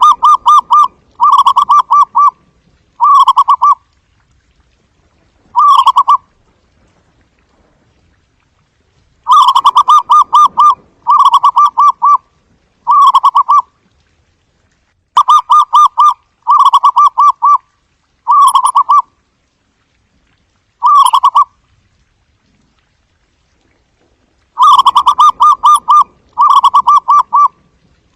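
Zebra dove cooing: short phrases of rapid staccato coos, each under a second, repeated in groups of two to four with pauses of a few seconds between groups.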